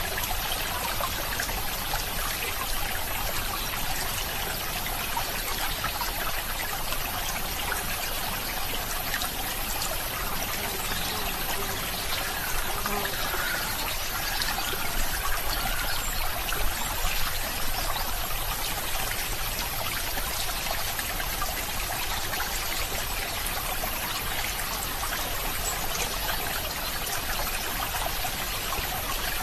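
Running water trickling steadily, as of a small stream, a little louder for a few seconds about halfway through.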